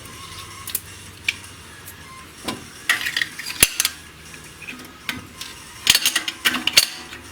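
Small metallic clicks and clinks of hand tools and a steel valve-adjustment shim being fitted into a tappet on the VAZ-2109's cylinder head, with one sharp click about halfway and a quick run of clicks near the end.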